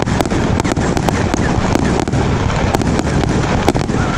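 A 320-shot 1.3G compound firework cake firing in rapid succession: sharp reports about four a second over a continuous rumble of bursting shells.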